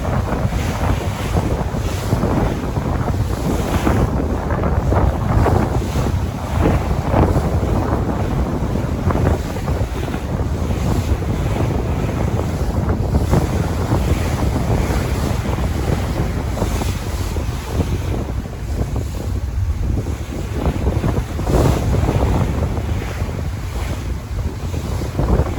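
Sea waves washing and breaking, with wind buffeting the microphone as a heavy low rumble under the surf.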